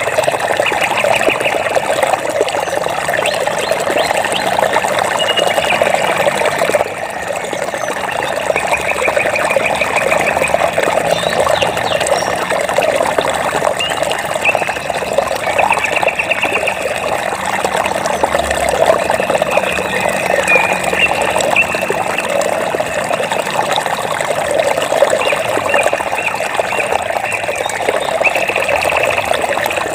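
Steady running water, with short, high, rapid trills from a small animal recurring every few seconds above it. The water dips slightly in level about seven seconds in.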